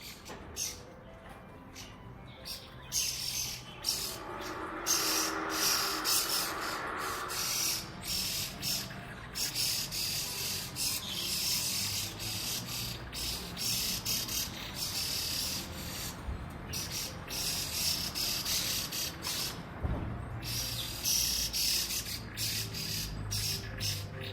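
Laughingthrush giving harsh, rapidly repeated chattering calls throughout, the scolding a laughingthrush gives at a cat.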